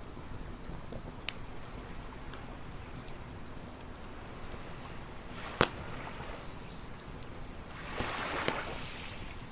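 Campfire burning with a steady low rush of surf, two sharp pops from the fire, the second and louder one about halfway through. Near the end a wave washes in.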